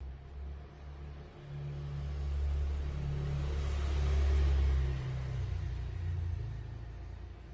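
A motor vehicle's engine rumbling low, growing louder for about four seconds and then fading away.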